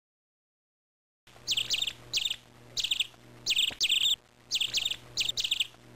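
Songbirds chirping: short bursts of quick high-pitched chirps, repeated every half second to a second, over a faint low hum, starting about a second in.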